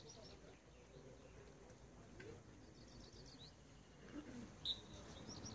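Faint outdoor ambience with small birds chirping in short high calls, and one brief louder high note near the end.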